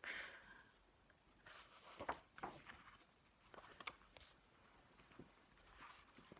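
Near silence with a few faint, brief rustles and clicks from a paper picture book being handled.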